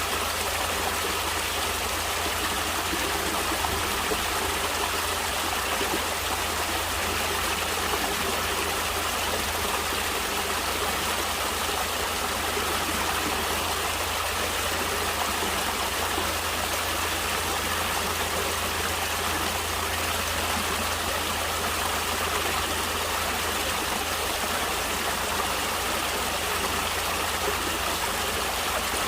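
Stream water flowing and splashing steadily, an even rushing noise that does not change.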